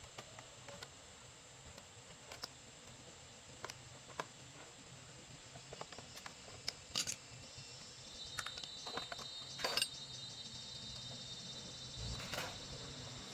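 Scattered light clicks and taps of hand work on small parts, with a faint steady high whine starting about eight seconds in.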